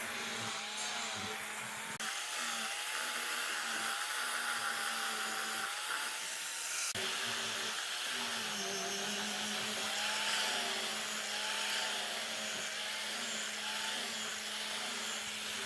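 Electric power tool running steadily on wood, its motor tone wavering slightly under load, with abrupt changes in the sound about two and seven seconds in.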